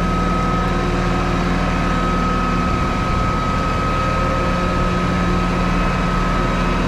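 Tow truck's engine idling steadily, with a thin, steady high whine on top.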